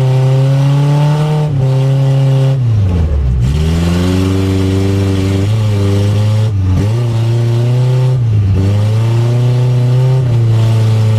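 Stock Chevrolet Chevette's four-cylinder engine, heard from inside the cabin, running hard at high revs. The revs dip briefly several times and fall away and climb back once about three seconds in.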